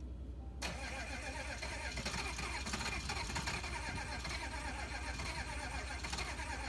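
Starter motor cranking a 1986 GMC 6.2L diesel, starting suddenly about half a second in and turning the engine over steadily without it catching.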